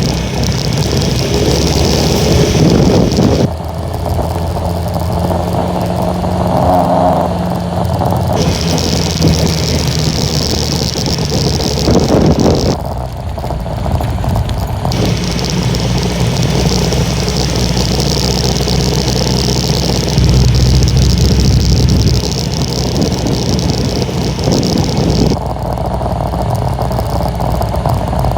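Honda Little Cub's small single-cylinder four-stroke engine running under way, with a steady rush of noise over it from strong wind. A higher hiss comes and goes several times.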